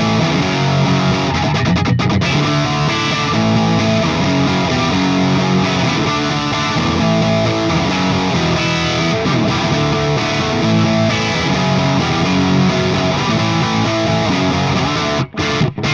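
Distorted electric guitar playing chords: a Gibson Les Paul Classic with Righteous Sound Gold Tooth humbuckers through a Friedman Small Box 50 amp. The playing breaks off twice, briefly, near the end.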